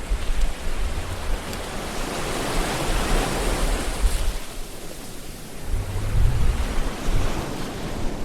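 Ocean waves breaking and washing up the shore: a wave's wash swells to a rush about midway, then draws back.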